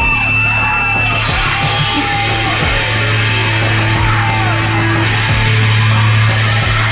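Live heavy rock band playing loudly in a club, with screamed vocals over distorted guitars, drums and a sustained bass note.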